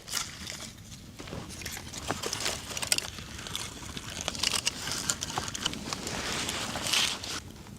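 Small fire crackling, with many sharp snaps over a rough rustling hiss that swells louder about a second before the end.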